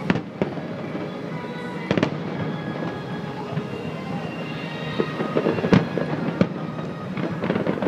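Aerial fireworks shells bursting: a series of sharp booms spaced a second or more apart, over a continuous background of bursts and crackle.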